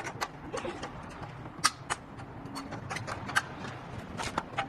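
Irregular sharp clicks or knocks, a few a second, over a low steady rumble.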